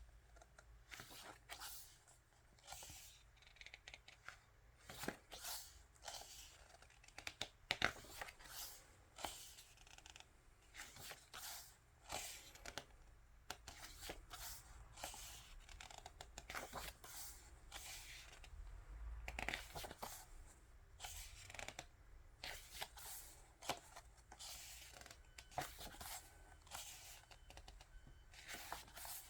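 Pages of an album photo book being turned and handled: faint, irregular paper swishes and light taps throughout.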